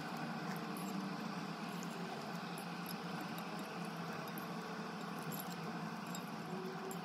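Steady background hiss with faint, light clicks of a metal fork against a ceramic clay pot.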